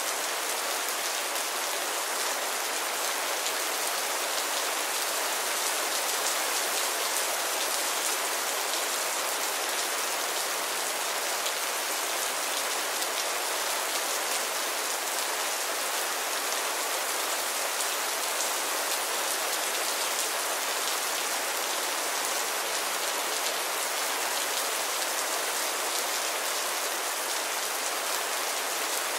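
Steady rain falling: an even, unbroken hiss with no change in strength.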